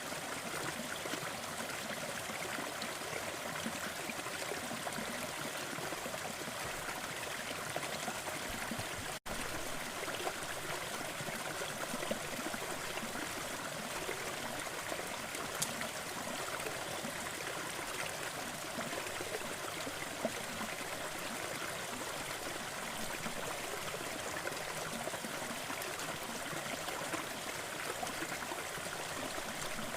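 Steady rushing noise with small fireplace crackles scattered through it. The sound drops out for a moment about nine seconds in, at a loop join.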